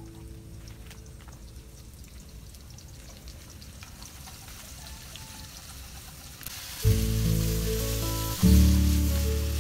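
Pieces of pork frying in hot oil in a pan, a loud sizzle that starts about two-thirds of the way in, after a stretch of faint clicks from handling. Acoustic guitar music plays over the sizzle from the same moment.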